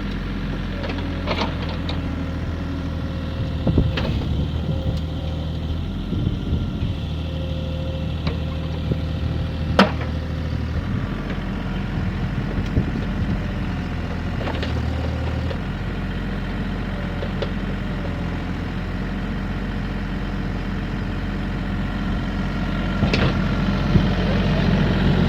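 Bobcat E32 mini excavator's diesel engine running while its hydraulic controls are worked, the engine note shifting several times as the load changes, with a few sharp knocks from the machine.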